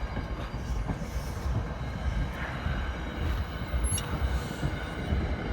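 NJ Transit commuter train's Comet passenger coaches rolling past, a steady low rumble of wheels on rail with a faint wheel squeal and a single sharp click about four seconds in.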